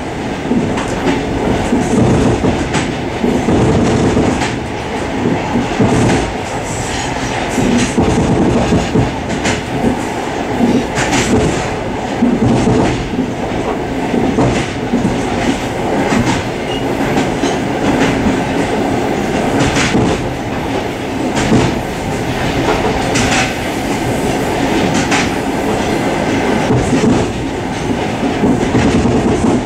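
Suburban passenger train running at speed, heard from inside a carriage vestibule: a loud, steady rumble of the running gear, with the wheels clicking over rail joints every second or two.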